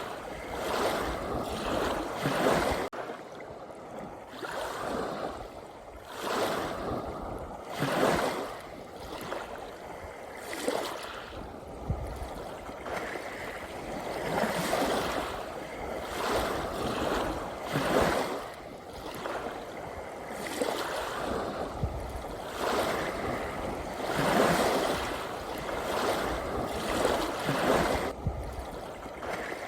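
Sea waves washing in and drawing back, a rushing surf sound that swells and fades every few seconds.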